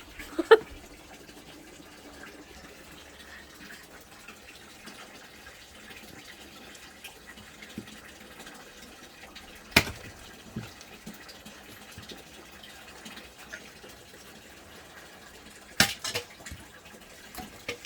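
Dry firewood burning in the firebox under a cast-iron cauldron, over a low steady hiss, with sharp cracks as the wood splits: about half a second in, near the middle and once more near the end.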